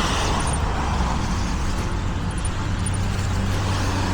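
Steady low rumble of a mountain bike on the move: wind buffeting the rider's camera microphone and tyres rolling, with no separate events standing out.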